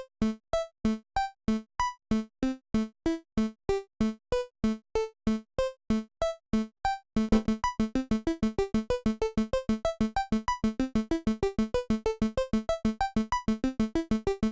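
Arpeggiated synth notes from the Output Substance software instrument: short, clipped pitched notes stepping through a repeating pattern, with a low note around the root alternating with higher ones. About halfway through the arpeggiator rate doubles, from roughly three notes a second to about seven.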